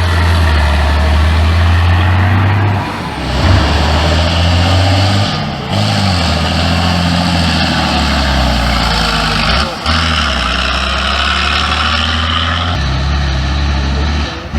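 Heavy truck's diesel engine running hard under load, its pitch shifting several times with brief dips in level.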